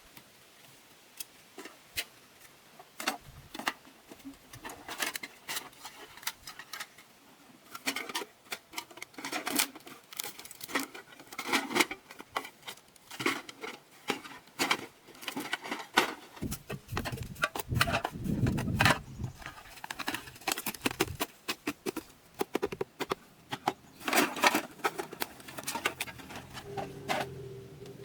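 Irregular run of small hard clicks and clatters, like objects being handled and knocked together, with a low rumble about two-thirds of the way through. Steady music comes in near the end.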